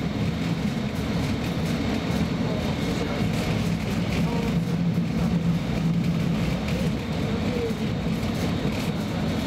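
Steady rumble and hum of a Roslagsbanan X10p electric train running, heard from inside the passenger car, a little louder about halfway through.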